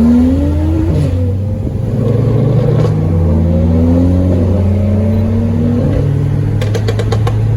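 Car engine revving up and down over a steady low rumble, its pitch climbing and falling twice, with a quick run of sharp clicks near the end.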